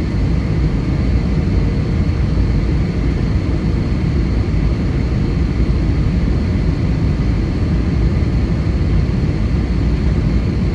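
Airbus A320 cabin noise: a steady rumble of engines and airflow with a faint steady high whine, as heard inside the cabin.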